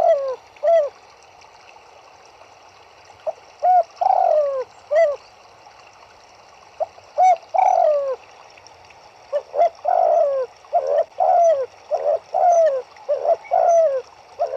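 Turtledove cooing in phrases of short falling coos, spaced out at first and then coming in a quick run over the last five seconds, over a faint steady background hiss.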